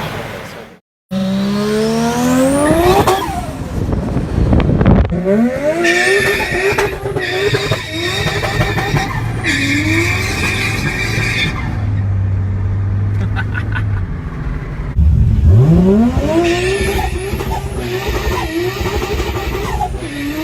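Turbocharged car engines revving hard and accelerating, their pitch climbing steeply and dropping several times as the throttle is opened and lifted, with the chatter of turbo flutter (compressor surge) on lift-off. There is a clean cut to another clip about a second in.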